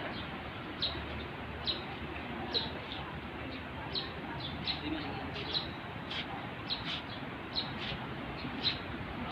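A bird chirping over and over, short high chirps coming one or two a second, over a steady background hiss.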